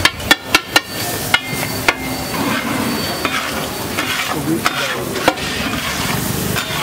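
Metal spatula scraping and clanking on a large flat griddle while scrambled egg rice fries and sizzles in oil. There is a quick run of sharp clanks in the first two seconds, then mostly steady sizzling and scraping with a few more clanks.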